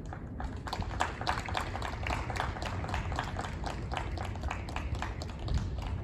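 Scattered hand clapping from a small group of spectators, applause at the close of a tennis match, over a steady low outdoor rumble.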